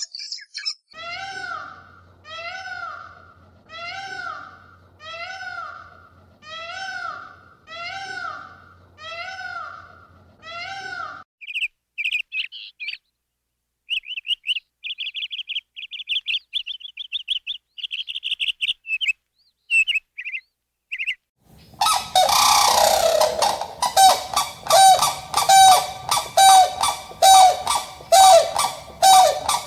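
A sequence of animal calls. First, one call with a clear pitch is repeated about every second and a half, eight times. Then comes rapid high chirping, and from about two-thirds in a flock of birds honking loudly and continuously.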